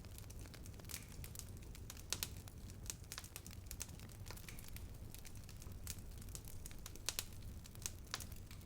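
Wood fire crackling, with frequent irregular sharp pops over a low rumble; the loudest pops come about two seconds in and again about seven seconds in.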